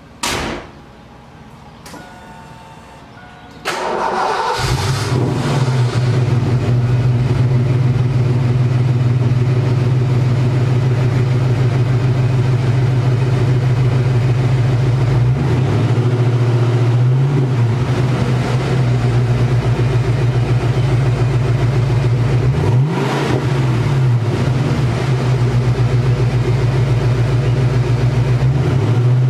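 A car door shuts with a bang. A few seconds later the 1988 Mustang GT's 5.0 V8 cranks, catches and settles into a steady idle, with a couple of brief revs about halfway through.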